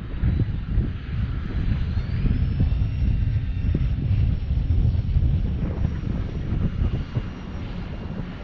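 Gusty wind buffeting the microphone as a loud, uneven rumble, with the thin whine of an electric model airplane's motor that rises in pitch about two seconds in and then holds steady.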